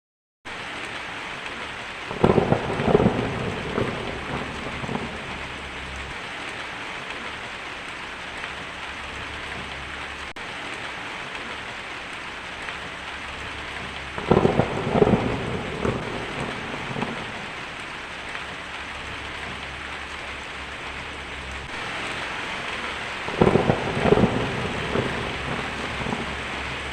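Steady heavy rain, with thunder rolling three times: a couple of seconds in, midway through, and near the end. The rain cuts in abruptly just after the start.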